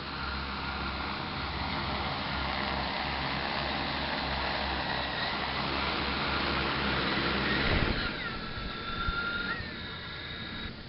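A 10-litre agricultural spraying multicopter drone's propellers whirring, the motor whine creeping slowly higher. About eight seconds in it peaks, then the pitch falls sharply and settles to a lower, steadier whine as the motors throttle down.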